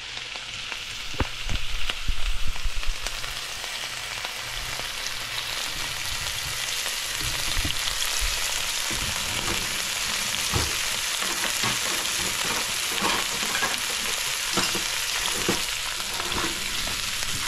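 Sliced onions, garlic, thyme and cilantro sizzling steadily in hot olive oil in a nonstick wok, with a few louder knocks in the first three seconds and scattered small pops after.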